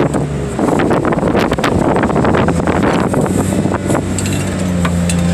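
A loader's engine runs under load while its grapple crushes into a scrap car, with a dense run of metal crunching and glass cracking and snapping from about half a second in to about four seconds.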